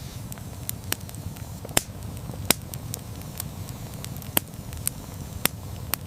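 Wood campfire burning with a steady low rumble and irregular sharp crackles and pops, the loudest pops about two seconds in.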